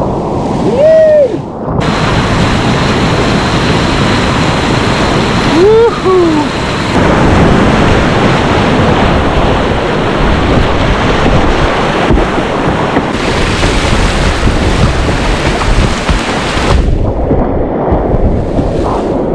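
Rushing whitewater in a Class III rapid, loud and close, with wind on the microphone. Brief wordless calls from a voice come about a second in and again about six seconds in.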